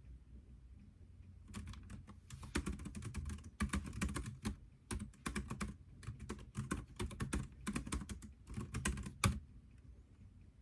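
Typing on a computer keyboard: a quick run of key clicks in short bursts with brief pauses, starting about a second and a half in and stopping shortly before the end.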